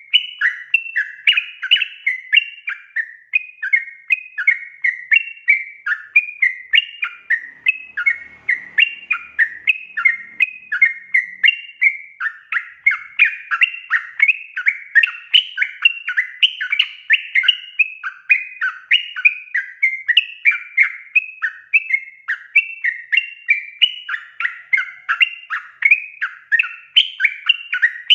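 Yellow-vented bulbul (trucukan) singing without pause: a fast, bubbling chatter of short warbled phrases, several a second.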